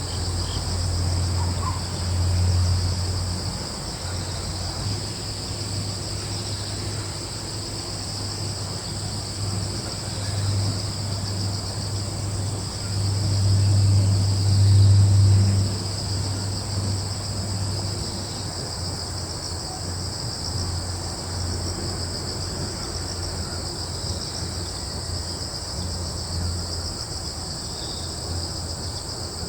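A steady chorus of crickets and other insects trilling without pause, over a low rumble that swells about two seconds in and again around the middle.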